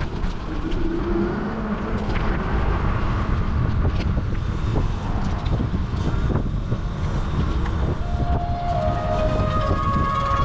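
Wind buffeting an action camera's microphone on a moving bicycle: a loud, choppy low rumble with occasional sharp knocks from the bike over the road. A few held musical tones come in near the end.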